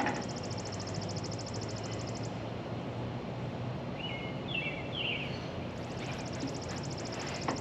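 Outdoor ambience: an insect's fast, high trill that stops a couple of seconds in and starts again near the end, with a few short bird chirps midway. A single knock right at the start.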